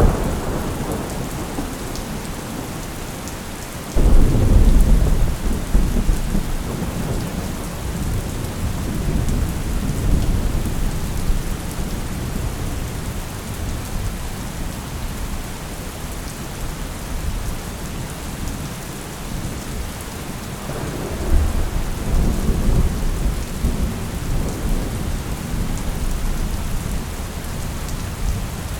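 Thunderstorm: steady rain falling, with a sudden clap of thunder about four seconds in that rumbles on for several seconds, and a second rumble of thunder about three quarters of the way through.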